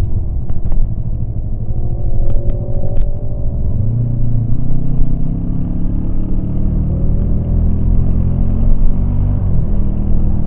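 Yamaha MT-25's 250 cc parallel-twin engine running under way, its note dropping off at the start, then climbing back under throttle about four seconds in and holding steady.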